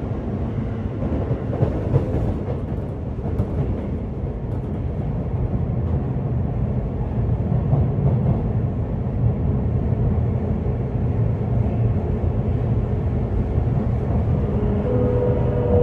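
Running sound of a Sotetsu 8000 series electric train, heard inside a motor car: a steady rumble of wheels on rail. Near the end a motor whine sets in and slowly falls in pitch.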